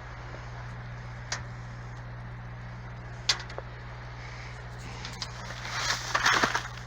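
A steady low hum under a faint hiss, with two sharp clicks, then loud crunching footsteps in snow near the end.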